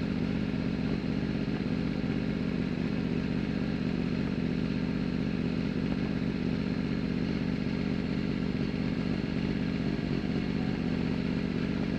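Race superbike's engine running steadily at an even, unchanging pitch, picked up close by a camera mounted on the bike.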